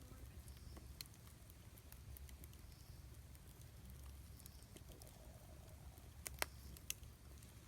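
Wood campfire crackling faintly: sparse sharp pops and ticks, the two loudest a little past six seconds and just before seven seconds, over a faint low rumble.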